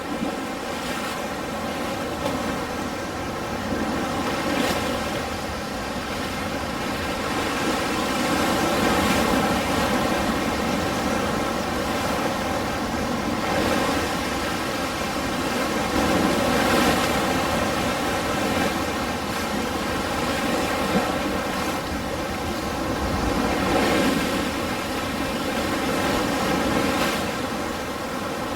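Ocean surf: waves washing in continuously, the noise swelling and easing every few seconds.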